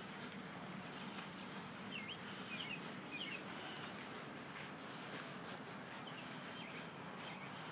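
Open-air ambience: a low steady hiss of background noise with a few short bird chirps, three about two to three and a half seconds in and a couple more near the end.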